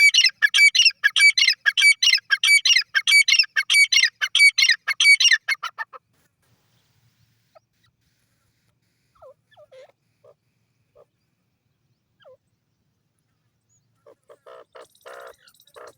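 Dakhni teetar (francolin) calling: a loud, rapid series of shrill, repeated calls for about six seconds, then only a few faint scattered notes, and a softer, lower call near the end.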